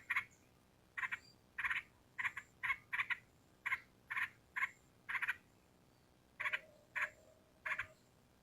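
Yellow-vented bulbul (trucukan) calling: a dozen or so short notes, in ones and quick pairs, with brief gaps between.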